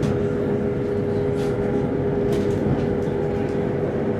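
Cabin noise of a Chinese high-speed EMU train running: a steady rumble with a constant hum and a few faint brief hisses.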